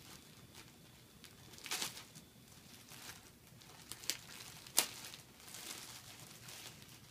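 A new crewneck sweatshirt being handled and unfolded: a few short rustles about two and four seconds in, with a sharper one near five seconds.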